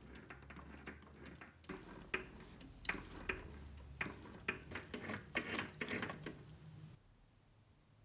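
Hand work on small metal parts: an irregular run of mechanical clicks and clinks that stops suddenly about seven seconds in.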